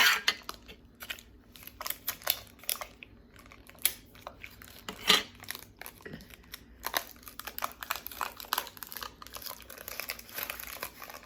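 Parchment paper crinkling and clear tape being pulled and torn as the paper is taped over the end of a cardboard toilet paper roll: irregular crackles and clicks, with a sharp crackle at the start and another about five seconds in.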